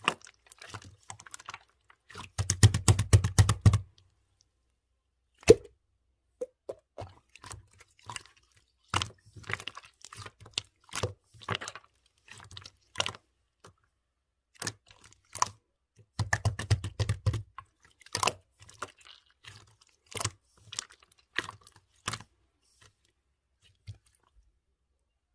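Clear slime being pressed and kneaded by hand, making a run of wet clicks and pops, with two flurries of rapid clicking about two seconds in and again about sixteen seconds in.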